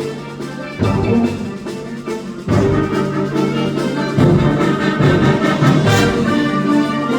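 A school concert band playing, brass to the fore over low sustained notes, with sudden loud full-band entries about a second in, again at about two and a half seconds and at about four seconds.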